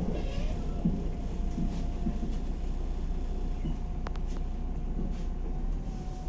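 Inside a MAZ-105 articulated bus under way: steady engine and road rumble with a thin, steady whine. There are a couple of sharp rattling clicks about four seconds in.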